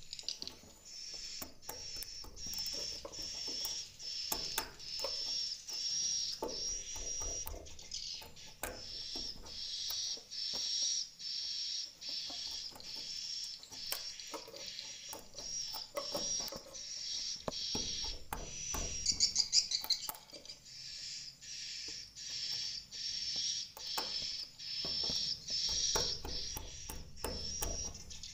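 Swiftlets twittering inside a swiftlet house: a regular string of high chirps, about one and a half a second, with scattered sharp clicks and a brief louder flurry of clicks and chirps about two-thirds of the way in.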